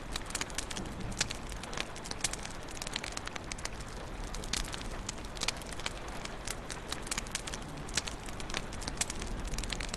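Wood fire crackling in a fireplace: many irregular sharp pops and snaps over a steady low rush of flame.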